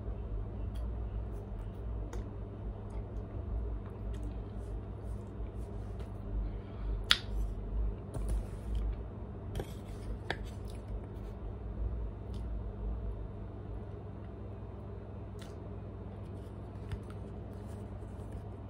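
Mouth sounds of someone eating chunks of Argo starch, which she calls not crunchy: scattered soft clicks, with one sharper click about seven seconds in, over a steady low hum.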